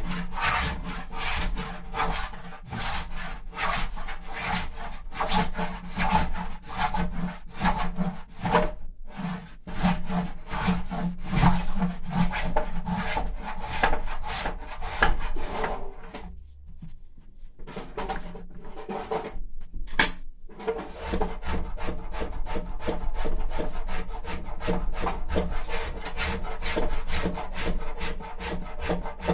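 Hand tool scraping and rasping the wood of a carved mulberry trough as its walls are thinned, in quick even strokes of about three a second. The strokes pause for a few seconds just past the middle, then start again after a sharp click.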